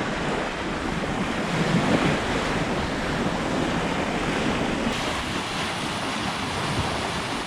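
Bow wave and water rushing steadily along the hull of a Hallberg-Rassy 54 sailing yacht making about 8 knots under spinnaker, with wind buffeting the microphone.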